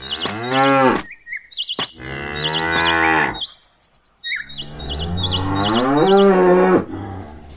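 A cow mooing three times, each moo long and drawn out. Birds chirp in the background.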